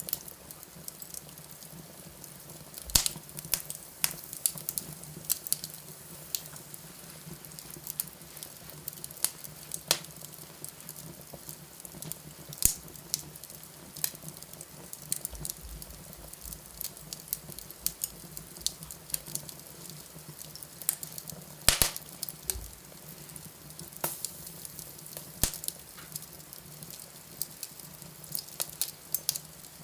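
Wood fire crackling in a fireplace: a steady run of irregular small snaps and pops, with a few louder pops, over a low steady hum.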